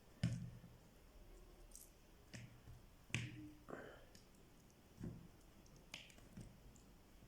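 Faint, scattered knocks and clicks, about seven spread over several seconds, some with a dull thud. They come from handling fish pieces and dishware while coating the fish in chermoula marinade.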